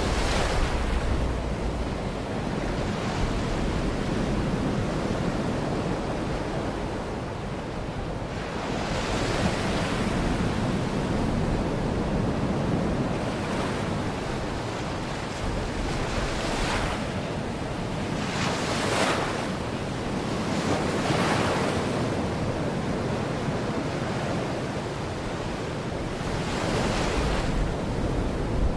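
Baltic Sea waves breaking and washing up the shore, one surge after another every few seconds, over a steady wash of surf. Wind rumbles on the microphone underneath.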